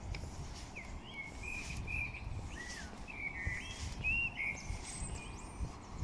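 A songbird singing a string of short whistled phrases in the first half, over a steady low outdoor rumble.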